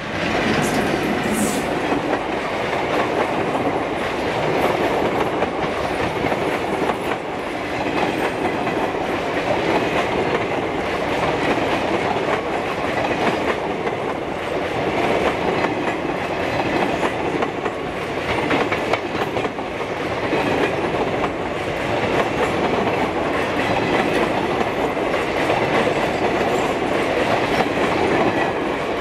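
The cars of a speeding diesel-hauled express train rolling past at speed: a loud, steady rush of wheel and rail noise that holds throughout, with no horn.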